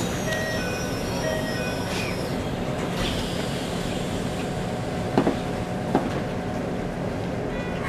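Interior sound of a Keikyu New 1000 series electric train car: a steady hum, with a short run of brief chime-like tones in the first two seconds and two sharp knocks about five and six seconds in.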